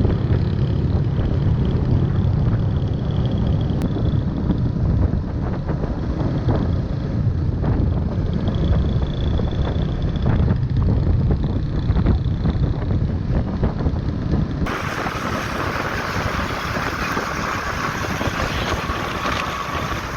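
Wind buffeting the microphone on a moving motorbike, over a steady low rumble of engine and road. About 15 s in the sound switches abruptly to a brighter, hissier rush.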